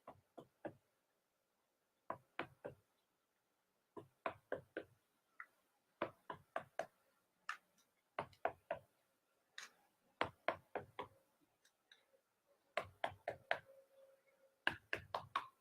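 Light, sharp taps and clicks of hard objects being handled, coming in small clusters of two to four every second or two.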